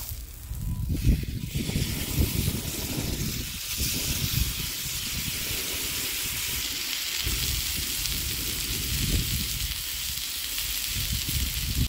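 Tomahawk steak sizzling steadily as it sears in hot oil, its second side down just after being flipped.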